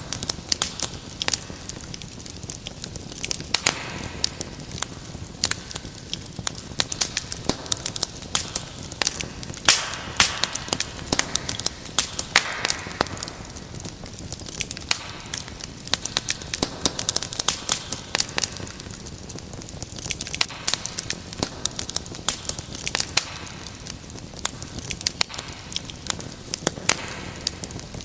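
Wood fire crackling in a fireplace: a steady hiss with many small irregular pops and snaps, now and then a brief louder flare of crackling.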